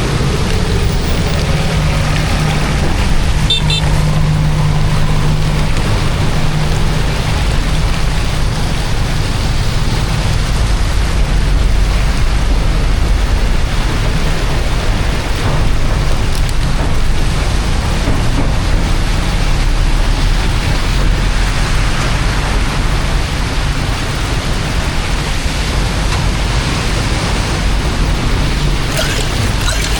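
Steady, loud rushing of water, as floodwater runs at the blocked storm drain, with a faint low hum in the first several seconds.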